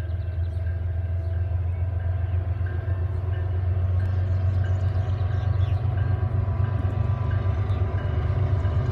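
Low rumble of an approaching container train's diesel locomotives, growing slowly louder. A grade-crossing bell rings faintly at a steady beat.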